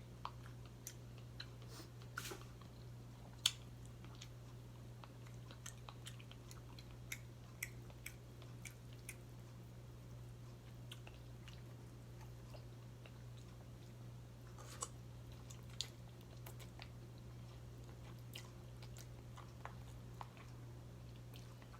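Faint close-up chewing and biting of a seafood pasta with mussels and shrimp: soft mouth clicks and smacks scattered through, over a steady low hum.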